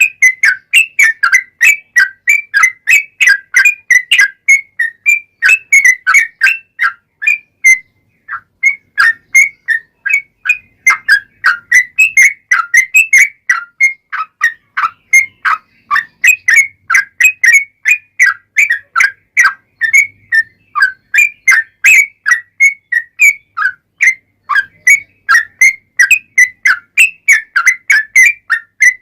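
Yellow-vented bulbul (trucukan) singing a long, fast run of short, bubbling whistled notes, several a second, with a brief pause about eight seconds in.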